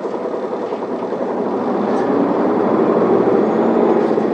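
Isuzu Erga city bus engine and drivetrain accelerating away from a stop, heard from inside the passenger cabin, growing louder through the first three seconds.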